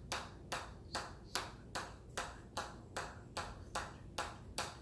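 Hammer striking an anvil in a steady rhythm, about two and a half blows a second, each blow with a short bright metallic ring.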